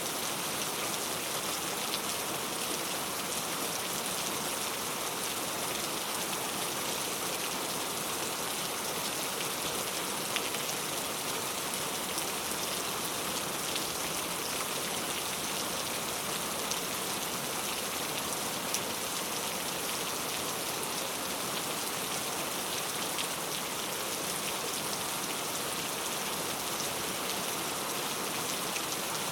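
Steady rain falling on a surface, a constant hiss dotted with faint individual drop taps.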